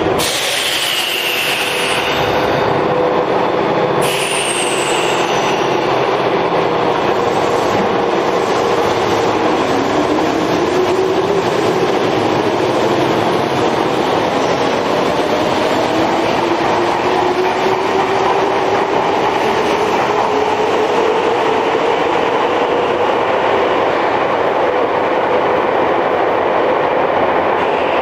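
A Tokyo Metro 5000 series subway train running, with a steady rumble of wheels on rails. Brief high squeals come in the first few seconds. From about a third of the way in, a motor whine climbs steadily in pitch as the train gathers speed.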